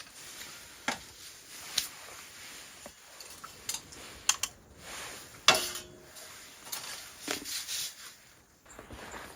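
Scattered light knocks and clinks of camp dishes and utensils being handled. One louder clink about five and a half seconds in rings briefly.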